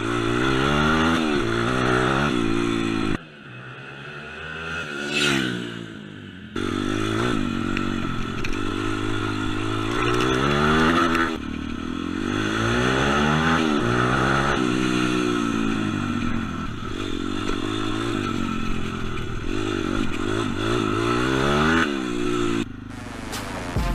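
M2R 140cc pit bike engine revving up and falling back again and again as the bike accelerates through its gears. About three seconds in it drops away to a quieter sound for a few seconds, with a brief rising whine, then picks up again.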